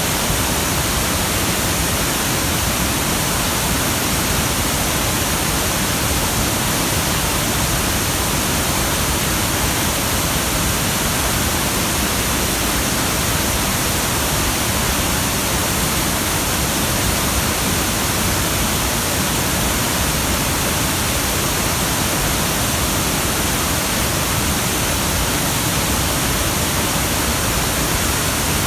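Waterfall running loud and steady, a dense rush of falling water from a heavy, rain-swollen flow.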